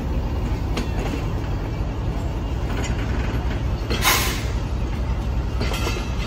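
A train rolling along the rails: a steady low rumble with a few faint wheel clicks, and a short, louder noisy burst about four seconds in.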